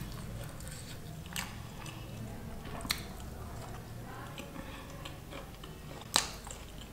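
Close-up chewing and wet lip smacking of a mouthful of paneer curry and lachha paratha, with sharp mouth smacks about a second and a half and three seconds in; the loudest smack comes about six seconds in, as the fingers are licked.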